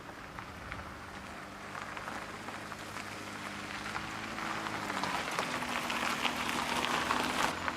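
Rain pattering on a surface, a dense hiss of many small drop clicks that fades in and gets louder. A faint low steady hum sits underneath and changes pitch about five seconds in.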